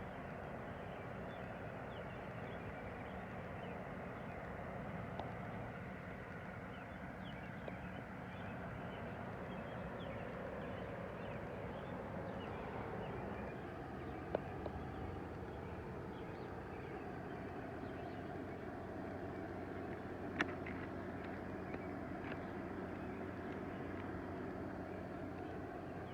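Garden ambience after rain: a steady background with a low hum and many faint, short, high ticks scattered throughout. There are sharp clicks about 14 and 20 seconds in.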